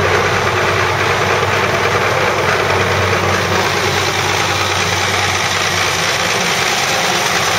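Farm tractor's diesel engine running steadily and loud, a low hum under a dense even noise.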